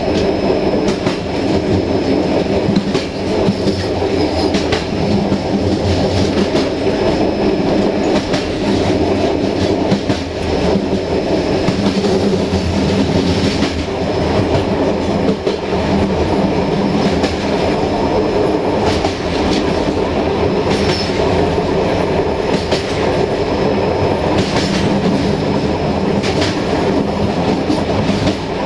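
Passenger train running along the track, heard from its rear: a steady rumble of wheels on rail with scattered clicks as the wheels pass over the rail joints.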